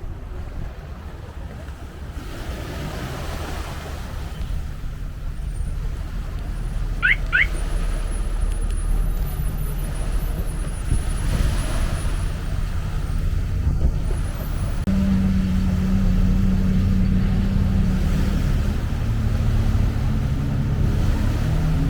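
A motor engine runs with a low rumble that grows louder over the first half of the stretch. About two-thirds of the way in, a steady low hum sets in.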